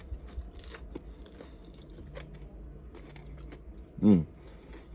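Close-miked crunching bites and chewing of a fried samosa's crisp pastry: sharp crackles in the first second or so, then softer chewing. A brief hummed "mm" from the eater about four seconds in.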